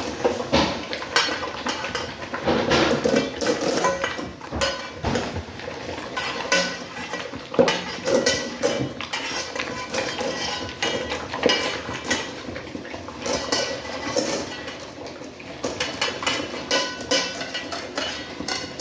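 Dogs eating hungrily from a food bowl: irregular clattering and knocking of the bowl, with chewing and licking as they clean it out.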